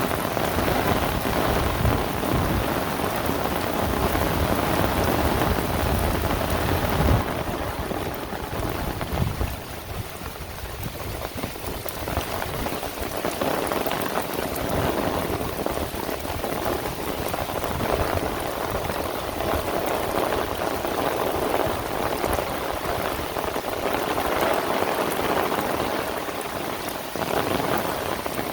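Heavy rain falling, a dense steady hiss of many drops hitting surfaces, with a deeper rumble in the first third that eases briefly before the downpour picks up again.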